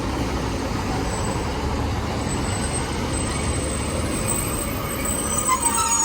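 Class 156 diesel multiple unit pulling into the platform, a steady heavy rumble with a thin high whine coming in about a second in and a few squealing tones near the end.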